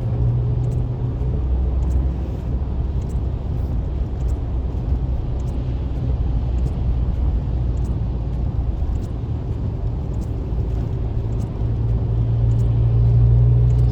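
Steady low drone of a car driving on a highway, heard from inside the cabin, swelling slightly near the end, with faint scattered ticks.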